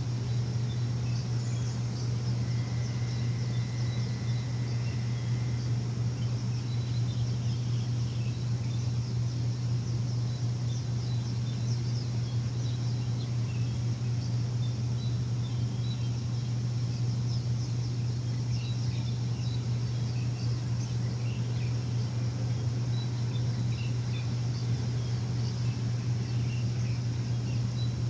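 A machine's steady low hum, with birds chirping in short scattered calls over it. Near the start a steady high tone sounds for about three seconds.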